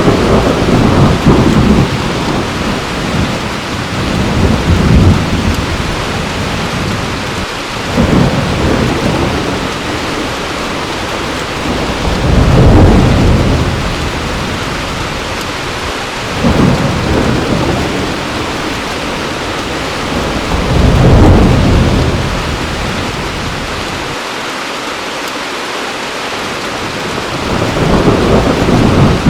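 Heavy rain falling steadily, with thunder rumbling in repeated low swells every few seconds.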